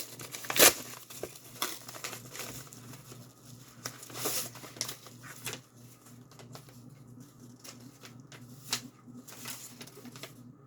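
A mail package being opened by hand: packaging crinkling and tearing in scattered sharp rustles, the loudest about half a second in, quieter ones after.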